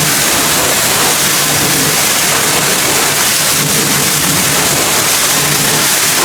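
Pressure washer spraying a jet of water: a loud, steady hiss with a low hum underneath.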